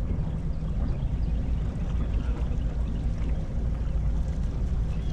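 Steady low rumble of a fishing boat on the river, with no distinct events.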